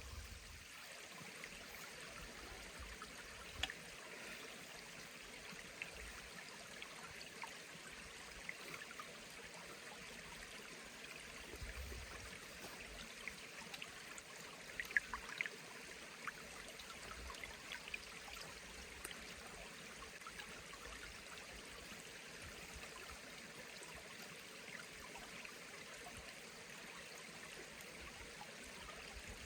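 Forest stream running steadily, with scattered faint ticks and a couple of sharper clicks about halfway through.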